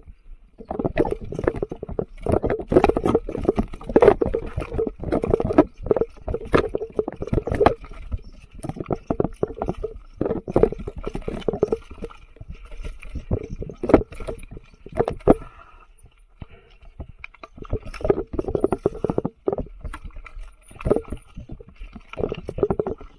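Mountain bike rattling and knocking over a rough dirt trail, a fast run of irregular jolts with tyre and frame noise. It eases briefly about two-thirds of the way in, then picks up again.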